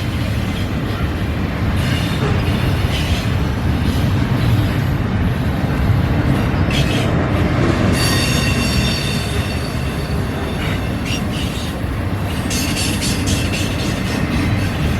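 Train rolling past, with a loud, steady rumble of wheels on rail. A high-pitched wheel squeal comes in about eight seconds in and lasts a couple of seconds.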